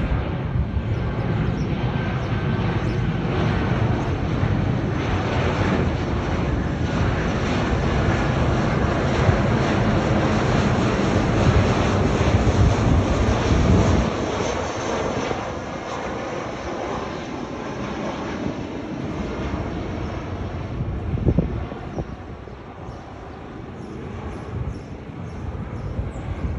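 Boeing 737-700 jet with its CFM56 engines running at high power, a loud steady roar with heavy low rumble. About halfway the deep rumble drops away suddenly, leaving a lighter engine roar, and a single thump comes a few seconds later.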